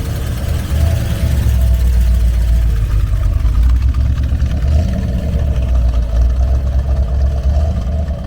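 A vehicle engine idling nearby, a steady low rumble that gets louder about a second in.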